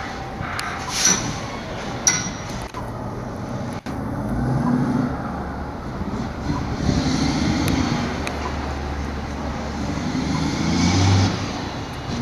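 Street traffic passing, with a low rumble of vehicles that swells and fades. A couple of sharp knocks come about one and two seconds in.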